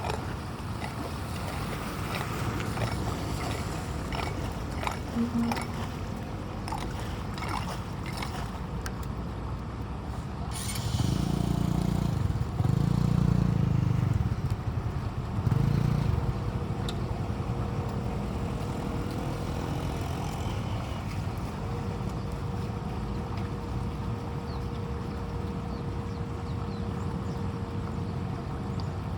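Steady rush of rain and running floodwater, with scattered small knocks in the first ten seconds and three louder low surges of water about 11 to 16 seconds in.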